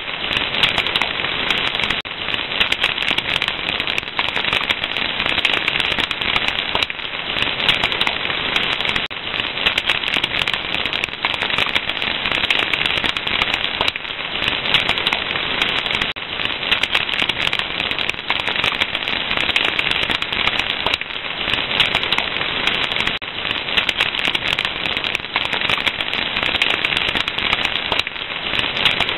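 Wood fire crackling: a dense, unbroken stream of small pops and snaps over a soft hiss.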